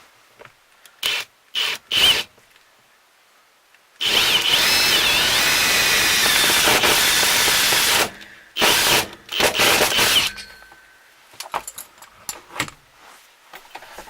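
Power drill boring holes for bolts: three short bursts, then one long steady run of about four seconds, then several more short bursts, followed by small clicks and rattles.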